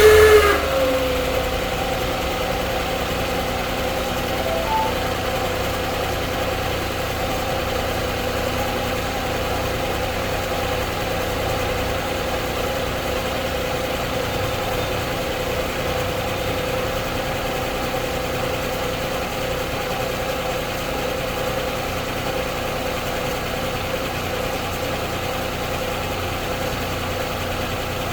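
2009 Honda Odyssey's V6 engine idling just after startup, with a steady whine held at one pitch over the idle; in the first second the sound is louder and its pitch falls quickly as the engine settles. This whine is the strange startup noise the owner is asking about.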